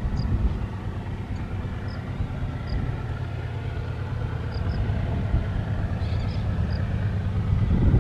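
Heavy-haul diesel-electric locomotives (GE AC44i/ES44ACi type) of a loaded iron ore train running, a steady low engine drone with rail rumble that grows gradually louder. A few faint high chirps sound over it.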